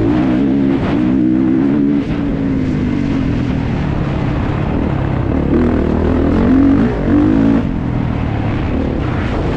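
Kawasaki KX450 motocross bike's single-cylinder four-stroke engine revving up and down repeatedly as it is ridden around the track, with a short drop in the engine note about two seconds in.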